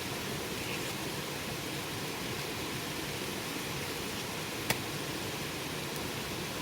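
Campfire burning with a steady hiss, and one sharp crackling pop of the wood a little over halfway through.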